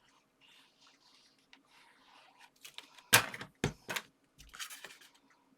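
Paper and card being handled while glue is put around the edge of a card layer: soft rustling and scraping, then a few sharp knocks and rustles about three seconds in.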